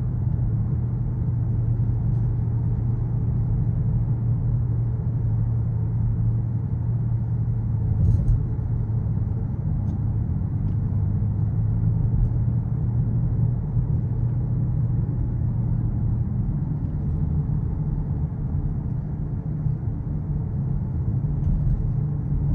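Skoda Kodiaq RS's 2.0 TSI four-cylinder petrol engine and exhaust at a steady cruise: an even, low drone over road rumble, with no revving.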